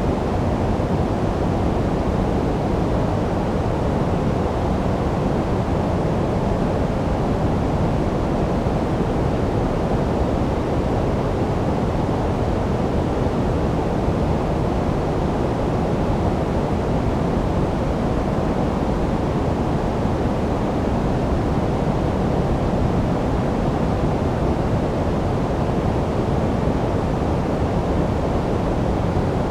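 Steady, unchanging synthetic noise of the kind sold as white noise for sleep. It is weighted toward the low end, a deep, even hiss with little treble, and has no pulses or changes.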